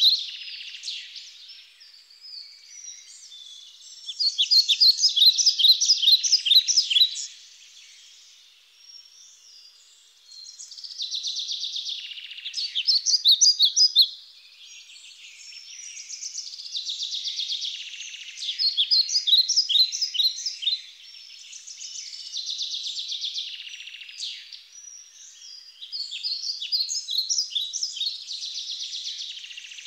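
Birds chirping and singing in bouts of rapid repeated notes a few seconds long, with quieter gaps between.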